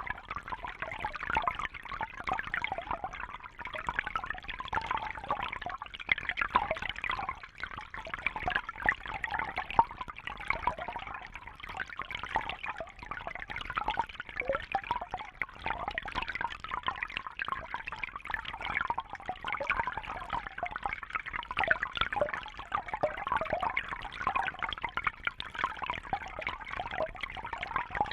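Water trickling and bubbling steadily in a continuous stream of small splashes.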